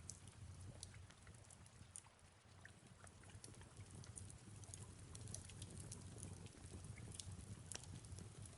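Fireplace crackling softly, with irregular sharp pops and snaps over a low steady rumble, and soft rain falling in the background.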